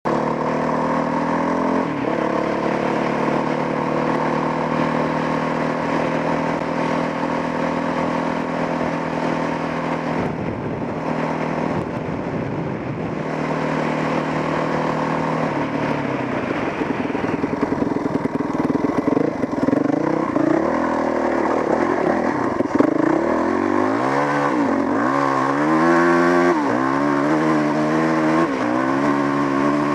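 Dual-sport motorcycle engine running under way, holding a steady note at first, then from about twenty seconds in its revs rising and falling again and again as the throttle is worked.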